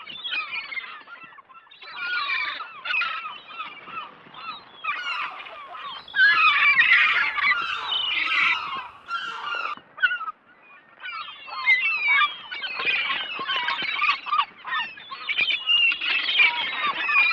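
A flock of gulls calling, many harsh overlapping cries at once, with brief lulls about a second and a half in and again about ten seconds in.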